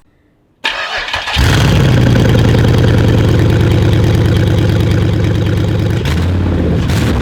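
Swapped-in 5.3 L LS4 V8 is cranked by the starter for under a second and catches, then runs loud and steady through a makeshift silencer: a tailpipe stuffed with steel wool that only breaks the racket down a little. The engine note shifts slightly about six seconds in.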